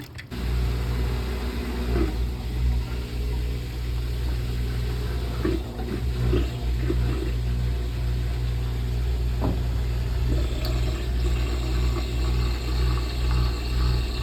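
Brastemp Clean washing machine running, its motor starting abruptly just after the beginning and then humming steadily, with water noise.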